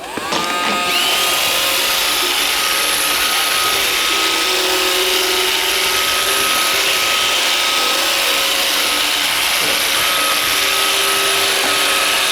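iRobot Roomba 560 robot vacuum starting a cleaning run: its vacuum fan and brush motors spin up with a rising whine in the first second, then run steadily with a loud hiss and an even whine. It is running normally.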